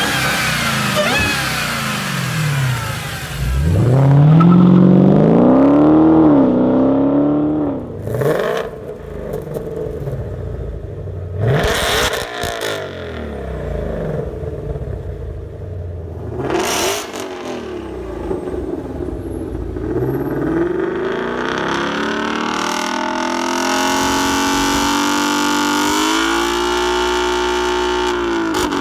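Supercharged V8 muscle car exhaust being revved repeatedly, the pitch climbing and falling with each blip, with three sharp cracks in between and a longer held rev near the end.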